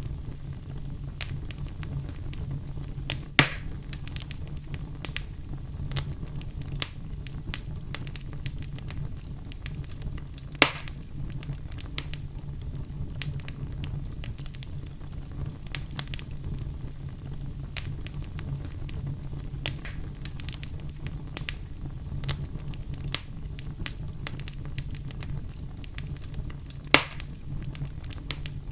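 Wood fire crackling in a fireplace: a steady low rumble of flames under constant small crackles, with three louder pops, the first a few seconds in, one near the middle and one near the end.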